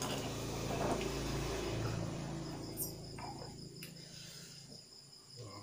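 A person drinking for about three and a half seconds, then stopping. Crickets chirp steadily underneath.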